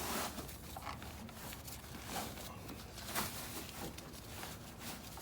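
Packaged bivy bags being handled and pulled out of a storage compartment: irregular soft rustling and scraping, with a few louder swishes.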